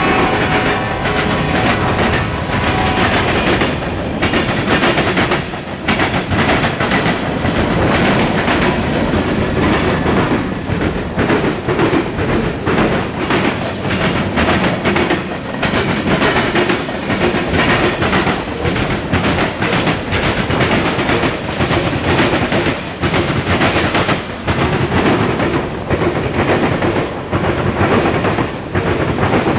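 Freight cars of a mixed freight train rolling past close by: a steady loud rumble with rapid, irregular clacking as the wheels cross rail joints.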